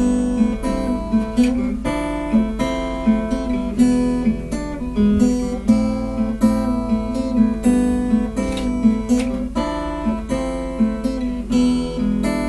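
Acoustic guitar playing chords in a steady strummed rhythm, with no voice.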